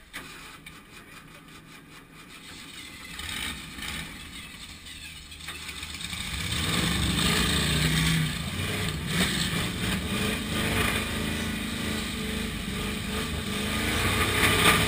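Demolition derby car's engine cranking with even strokes, catching about six seconds in, then running loud and revving unevenly. It is a cold, hard-starting engine whose driver suspects a faulty power valve.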